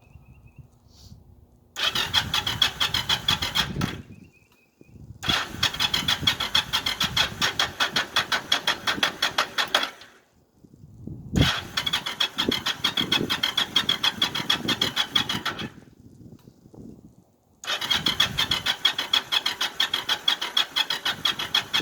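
Yamaha V-Star 1100 Classic's air-cooled V-twin being cranked on its electric starter in four separate attempts, each a few seconds of fast, even chugging that stops abruptly. It is a cold first start of the year without choke on freshly rebuilt and rejetted carburetors, and the engine does not catch.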